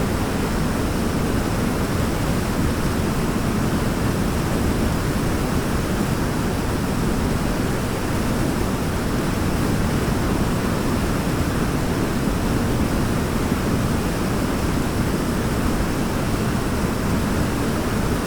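Waterfall: a steady, even rush of falling water, heavy in the low end, with no change throughout.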